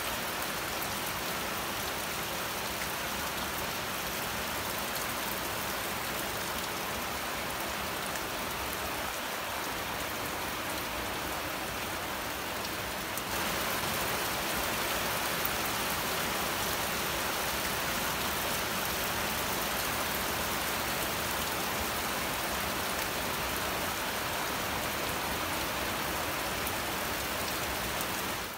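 Heavy typhoon rain pouring down, a steady dense hiss that gets a little louder about halfway through.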